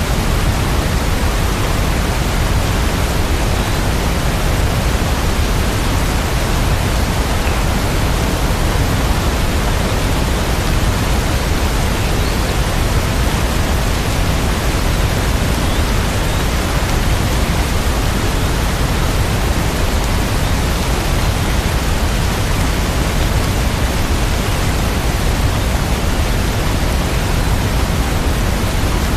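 Steady, even rain sound for sleep, a dense unbroken hiss heaviest in the low end, with no separate drops or changes.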